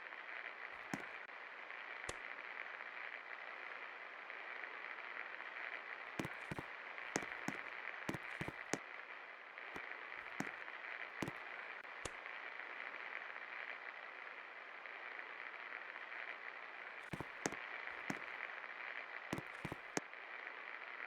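48-inch Millat Standard ceiling fan running: a steady airy hiss, with scattered irregular clicks.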